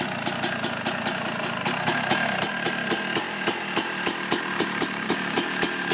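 A 2013 Yamaha YZ250 single-cylinder two-stroke engine with an FMF Fatty pipe and PowerCore 2 silencer, idling steadily, with sharp pops about three or four times a second.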